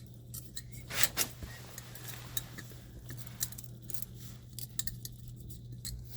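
Light metallic clinks and taps of tools and parts being handled, with two louder knocks about a second in, over a steady low hum.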